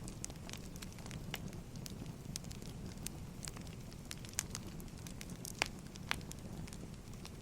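Firewood burning with a steady low rumble and irregular sharp crackles and pops, a few louder pops past the middle.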